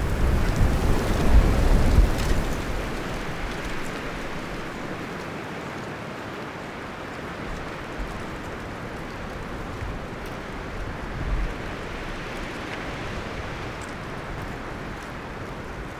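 Wind gusting through forest trees, leaves and branches rustling steadily. A strong gust with a low rumble comes in the first two or three seconds, then eases, and a smaller gust swells briefly about eleven seconds in.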